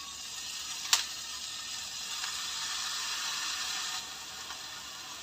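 Chopped garlic frying in oil in a frying pan: a steady sizzling hiss, with one sharp click about a second in.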